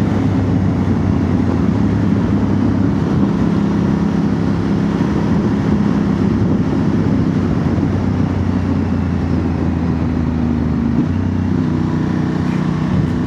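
Honda Transalp's 755 cc parallel-twin running at a steady pace through a Dominator MX2 slip-on exhaust with its dB killer fitted, over wind and road noise; the engine note shifts slightly about eleven seconds in.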